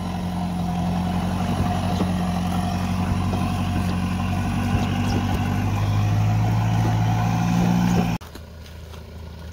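Mahindra Roxor's 2.5-litre turbodiesel engine running steadily under load while towing a heavy tractor, its pitch rising a little toward the end. About eight seconds in the sound drops suddenly to a quieter engine hum.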